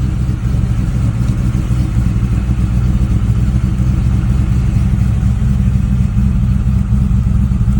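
Fuel-injected 1966 Ford Mustang engine idling steadily shortly after a cold start from about 47 degrees, with no smoke from the exhaust.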